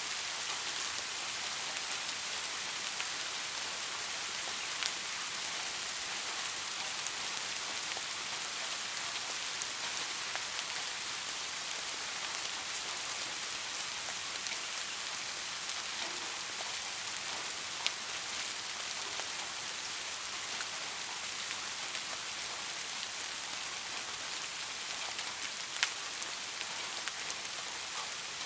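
Steady rain falling, an even hiss with many individual drops ticking on a surface and a few louder single drops now and then.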